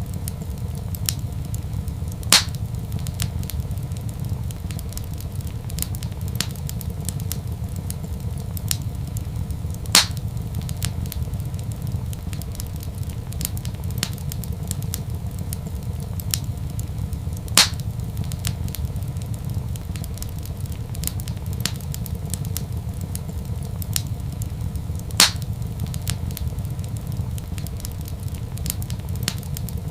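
Wood fire crackling in a fireplace: a steady low rumble with scattered small crackles and four louder sharp pops, about seven and a half seconds apart.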